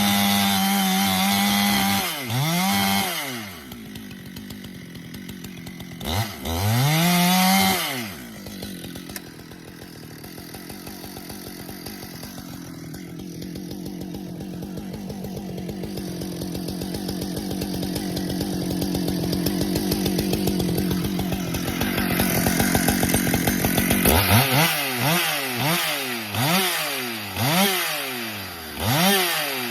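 Husqvarna chainsaw held at full throttle while noodling a pecan round, twice for about two seconds each, with the throttle dropping in between. It then idles for a long stretch, slowly growing louder, and near the end is revved up and down several times in quick succession.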